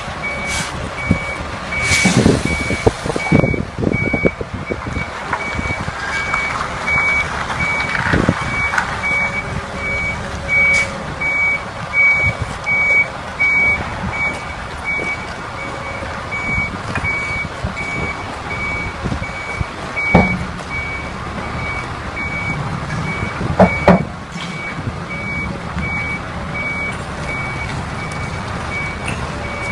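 A heavy vehicle's reversing alarm beeping steadily, about two beeps a second, over a low engine rumble, with a few loud knocks.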